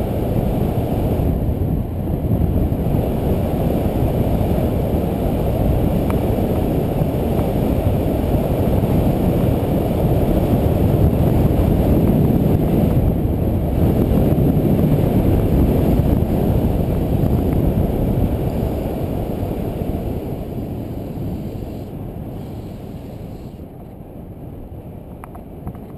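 Wind rushing over a GoPro's microphone on a road bike descending at about 30 mph: a dense, low rumble that eases off over the last several seconds.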